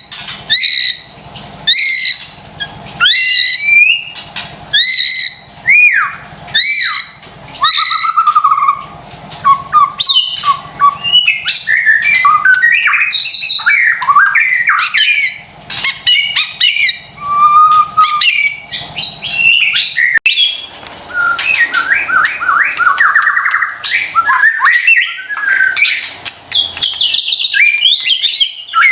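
White-rumped shama (murai batu) singing: a run of loud, downward-sweeping whistled notes about once a second, then a varied, fast-changing song of quick trills and chattering phrases.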